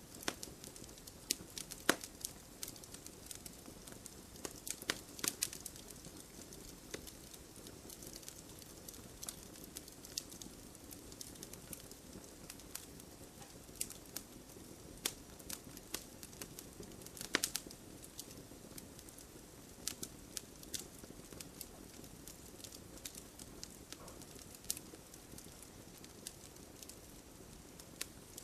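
Wood fire crackling and popping steadily, with irregular sharp pops over a low, even burning hiss; the loudest snaps come about two seconds in and again past the middle.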